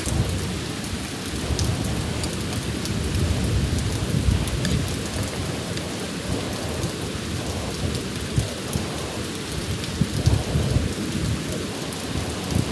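Steady rain falling, with scattered sharp drop ticks over a low rumble that swells about three to five seconds in and again around ten seconds.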